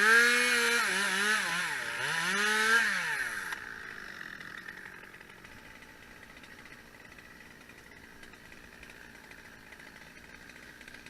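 Chainsaw revving at high speed for about three and a half seconds, its pitch dipping briefly about two seconds in, then falling away as the throttle is released.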